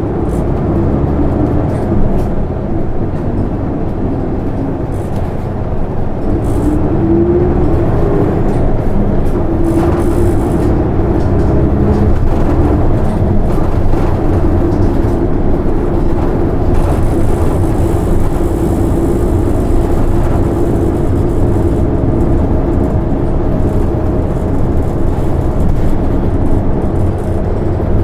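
Isuzu Erga city bus's six-cylinder turbo diesel pulling away from a stop and accelerating. The engine note rises over the first several seconds, then holds steady as the bus runs on.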